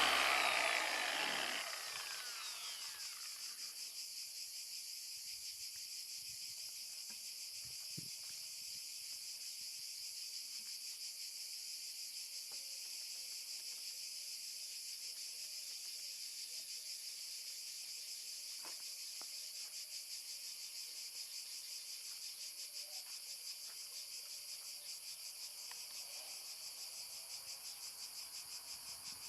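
Dual-action polisher spinning down and falling in pitch over the first couple of seconds, then a steady high chirring of insects.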